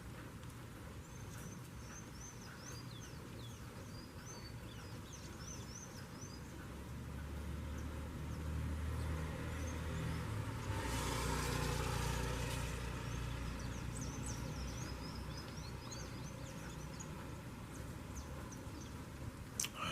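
Saffron finches giving short high chirps in the opening seconds and again later on, while a passing vehicle swells to its loudest around the middle and fades away. A single sharp click comes near the end.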